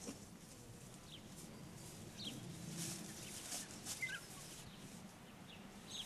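Faint outdoor ambience with a few short, scattered bird chirps.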